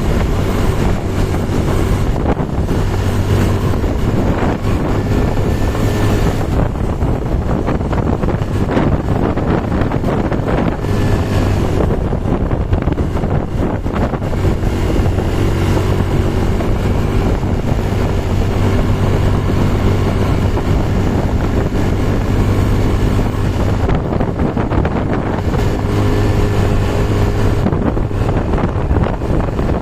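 An engine running steadily under heavy wind noise on the microphone, its hum fading briefly a few times.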